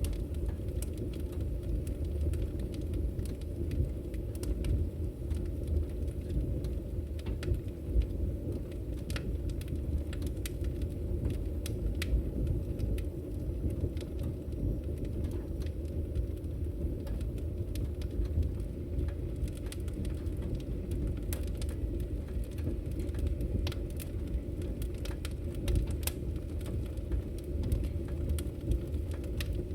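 Wood fire burning in a fireplace: a steady low rumble of the flames with frequent irregular crackles and pops from the burning firewood.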